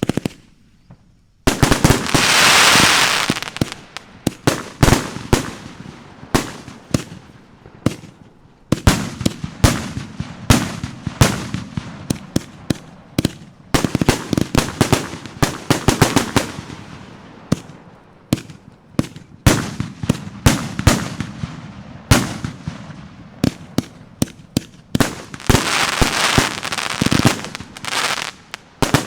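Boo Berry 56-shot consumer firework cake going off, loud. About a second and a half in it opens with a hissing rush, followed by a long run of sharp bangs and crackling bursts, often in quick clusters, with another hissing stretch near the end.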